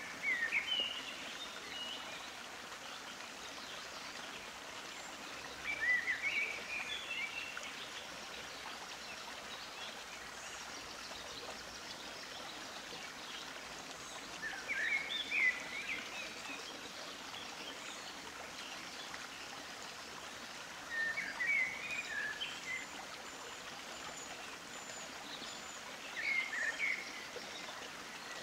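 A bird chirping in short bursts of quick notes, about five times at intervals of several seconds, over a steady hiss.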